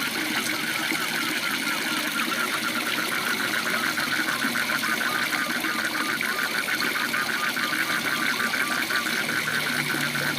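Waterfall rushing steadily, with a frog calling a long, fast run of evenly pulsed notes, starting just after the beginning and stopping at the very end. A slower series of short notes joins for a few seconds in the middle.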